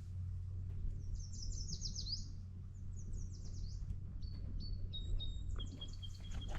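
A songbird singing: a quick run of high, rapidly repeated notes about a second in, a second short run, then a string of short whistled notes on a steadier pitch near the end, over a low steady rumble.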